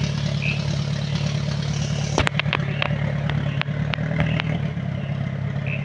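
Off-road 4x4 engine running steadily at low revs, with several sharp knocks and clicks from about two seconds in.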